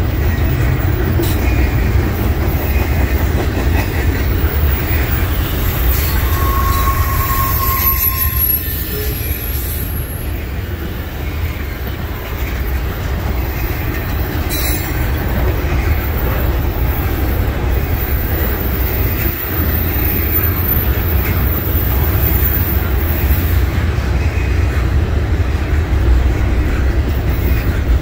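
Doublestack container well cars rolling past on steel rails, a loud steady rolling noise of wheels on track. A short wheel squeal comes about six seconds in, with faint high-pitched squealing here and there.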